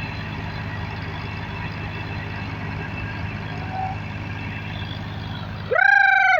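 Tractor engine running steadily under load. Near the end there is a brief, loud, high held call that rises at its start.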